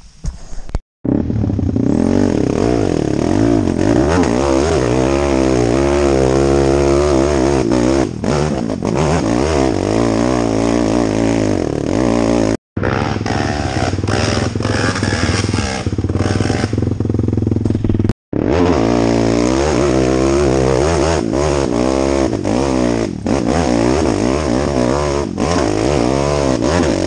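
Off-road motorcycle engine running close and loud, its revs rising and falling over and over as the throttle is worked, with three brief drop-outs to silence.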